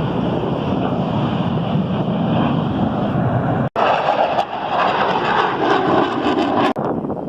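Steady aircraft engine noise with no clear pitch, breaking off for an instant about four seconds in and again near the end.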